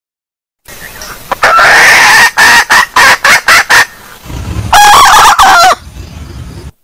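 Junglefowl hen calls of the kind used as a lure call: a drawn-out call, then a quick run of about six loud clucks. A second high, many-toned call comes near the end, and the sound stops abruptly.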